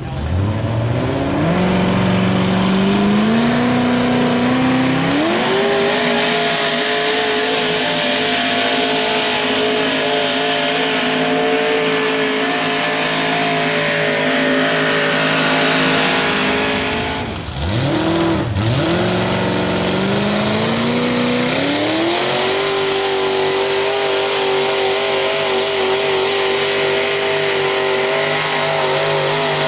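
Modified pulling garden tractor engine at full throttle, loud and high-revving: the revs climb in steps over the first few seconds and hold high. About two-thirds of the way through they drop sharply for a moment, then climb back in steps and hold again.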